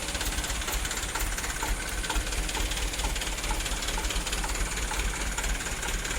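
Dump truck's diesel engine running steadily, a low rumble with hiss over it and a light tick about twice a second.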